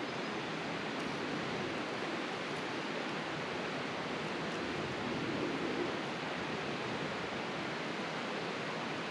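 Steady rushing of a river running past, with a slight swell about halfway through.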